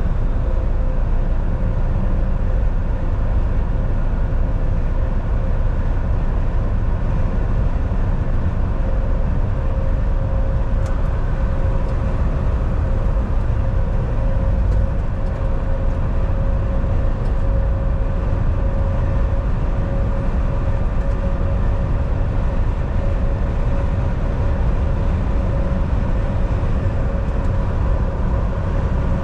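Cab of a Volvo VNL 760 semi truck on the highway: steady engine drone and heavy road rumble, with a constant whine running through it.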